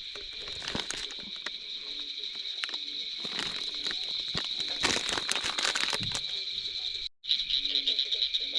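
A night insect chorus, a steady high-pitched buzzing trill, with scattered clicks and crackling handling and rustling noises over it. The sound cuts out briefly about seven seconds in, and afterwards the trill comes through as a clearer pulsing.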